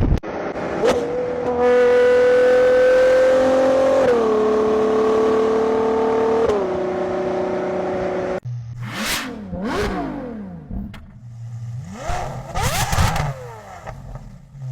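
V12 car engine and exhaust under load: a steady note that climbs slowly and drops twice at upshifts. After a cut about eight seconds in, the engine is revved several times, its pitch sweeping up and falling back.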